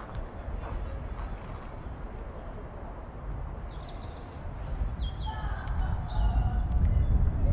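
Small birds chirping in short, falling notes about halfway through, over a steady low outdoor rumble that grows louder toward the end.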